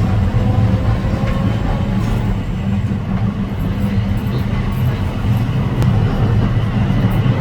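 Hakodate City Tram 8000-series streetcar running along its track: a steady low rumble of wheels on rail and running gear.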